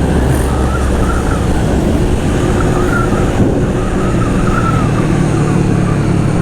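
Motorcycle under way at steady speed: the engine runs under dense wind noise buffeting the microphone.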